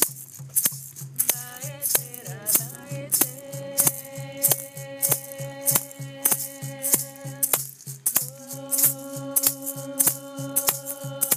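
Yawanawá chant: a voice sings long held notes over a maracá (gourd rattle) shaken in a steady, even beat. About a second in the voice pauses, then comes back sliding in pitch before settling on a held note. The singing breaks off briefly about eight seconds in.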